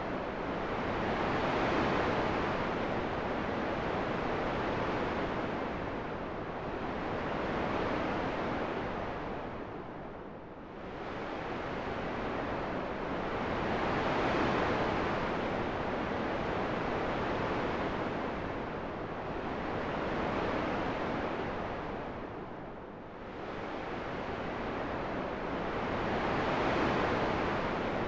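Wind rushing as a steady whoosh that swells and eases about every six seconds, dipping into a deeper lull twice.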